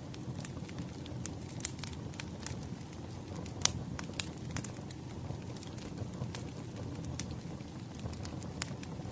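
Wood fire crackling: irregular sharp pops and snaps over a steady low rumble, with one louder pop a little before the middle.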